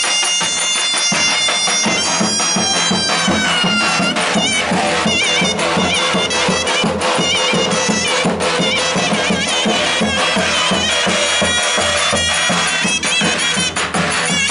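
Traditional Turkish wedding folk music: a loud reed wind instrument plays an ornamented, wavering melody over a steady drum beat.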